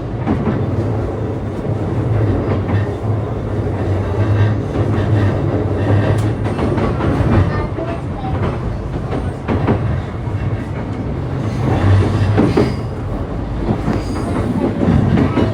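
Running noise inside a JR East E235-1000 series electric multiple unit in motion: a steady low hum under the rumble of wheels on rail, with occasional clicks of the wheels over rail joints.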